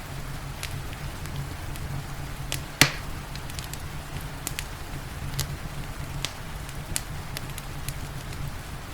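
Wood fire crackling in a fireplace: scattered sharp snaps and pops, one much louder pop about three seconds in, over a steady low rumble and the soft hiss of rain.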